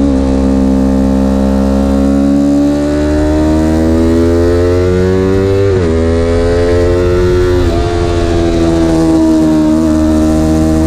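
Vehicle engine at speed on a track. Its pitch climbs steadily for several seconds, breaks sharply twice, about six and eight seconds in, in quick gear changes, then eases down as it slows.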